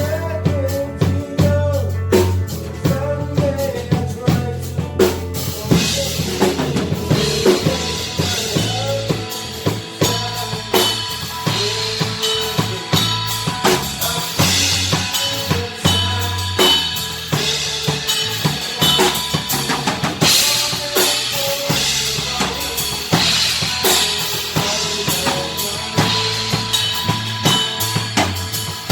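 A band playing live without vocals during a sound check: a drum kit leads with kick, snare and rimshots, over sustained bass notes and a melodic instrument line. The cymbals come in about six seconds in.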